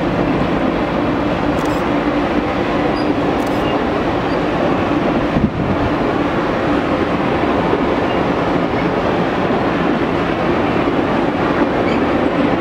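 Passenger coaches of a slow-moving circus train rolling past, a steady rumble of steel wheels on the rails, with a single short knock about halfway through.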